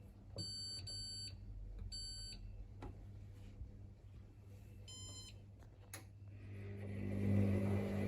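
Hoover Rapid 44 washing machine's control panel beeping: two short beeps back to back, a third a second later, and a higher one a few seconds after, with a couple of clicks between. Near the end a low hum builds up and grows louder.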